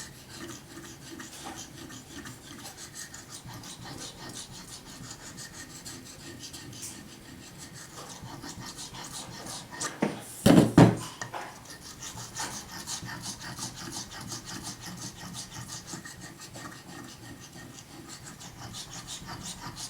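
Knife blade stroked back and forth over a wet waterstone, an even rasping scrape of many repeated strokes. A couple of loud knocks about ten seconds in.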